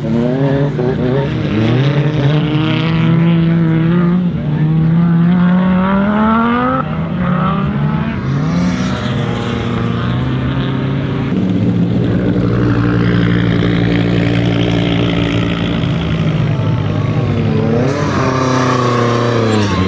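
Audi Sport Quattro S1 E2's turbocharged five-cylinder engine accelerating hard, rising in pitch in several pulls. It then runs at steady revs for several seconds, with a quick rev up and down near the end.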